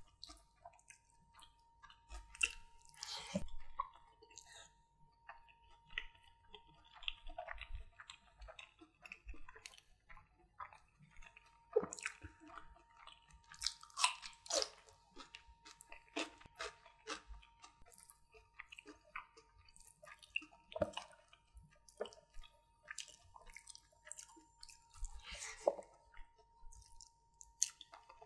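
Close-miked chewing of mouthfuls of butter chicken and fried rice, with many irregular wet smacks and clicks, and fingers squishing curry-soaked rice on the plate between bites.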